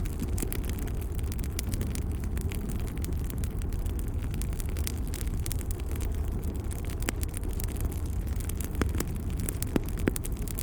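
Wood fire crackling in a fireplace: frequent sharp snaps and pops over a steady low rumble of the burning logs.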